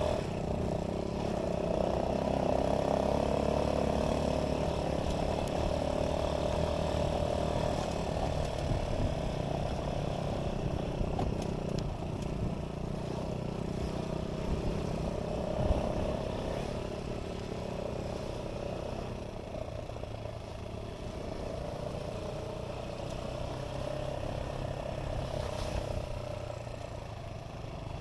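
A motor vehicle's engine running at a fairly steady speed, a continuous drone mixed with wind or road noise that eases off somewhat in the second half, with a single brief knock about halfway through.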